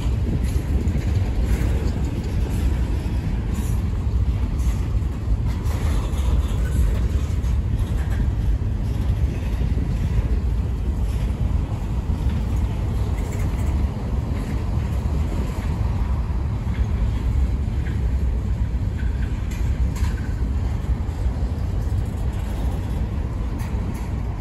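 Freight train of covered hopper cars rolling slowly past: a steady low rumble of steel wheels on rail, with scattered faint clicks and clanks.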